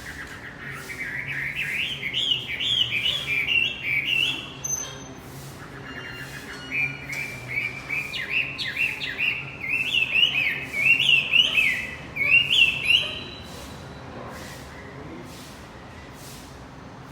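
Male wambi songbird singing two long phrases of rapid, rising-and-falling chirping notes, the second longer than the first; the song stops about three-quarters of the way through.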